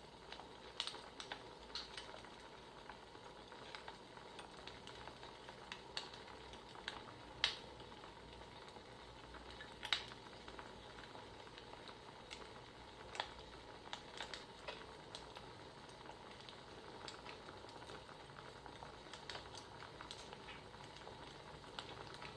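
Wood fire crackling: irregular sharp pops and snaps over a soft steady hiss, with two louder pops about seven and a half and ten seconds in.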